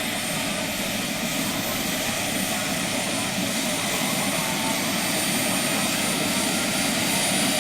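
Electric radio-controlled scale model helicopter, a Sikorsky S-70A Firehawk, flying: steady rotor noise with a thin, high motor whine that rises slightly near the end.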